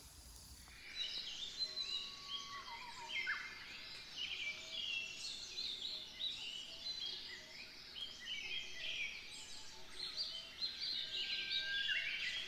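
Birds chirping and singing, many short quick notes and trills overlapping, starting suddenly about a second in.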